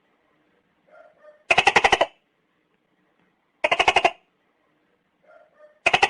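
Gecko calling in short bursts of rapid clicking pulses, each burst about half a second long, three of them roughly two seconds apart. Fainter short chirps come just before two of the bursts.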